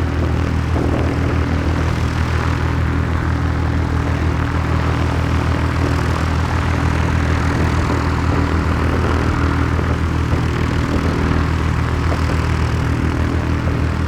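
An engine running steadily, a low, even drone that does not change in pitch or loudness.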